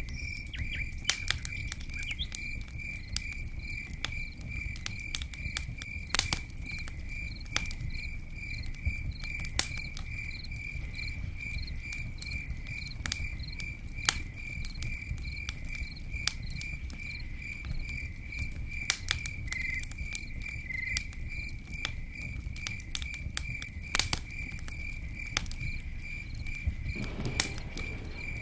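Campfire burning, with a low rumble and irregular sharp pops and crackles of wood. Under it, a cricket chirps steadily at about three chirps a second.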